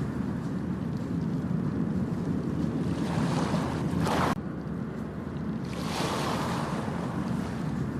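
Ocean waves washing onto a beach, with wind buffeting the microphone. A wave surges and breaks about four seconds in and cuts off suddenly, and another wash swells up about six seconds in.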